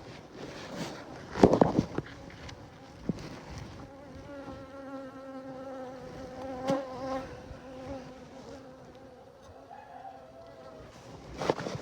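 Honeybee buzzing close to the microphone, a steady wavering hum that sets in about four seconds in and fades near the end. Before it, a loud rustle of fabric rubbing over the microphone.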